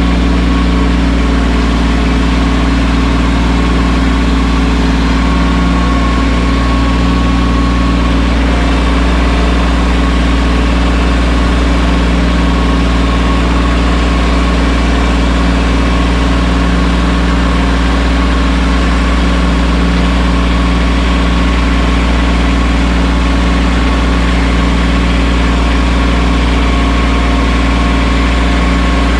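Mahindra 1626 sub-compact tractor's three-cylinder diesel engine running steadily.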